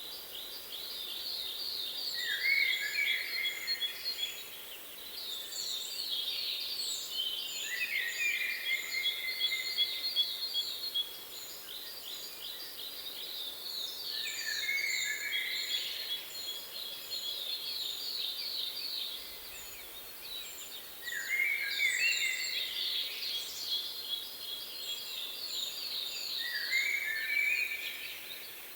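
Songbirds singing over a steady hiss: long runs of fast, high trills, with lower phrases breaking in every few seconds and thin, very high notes above.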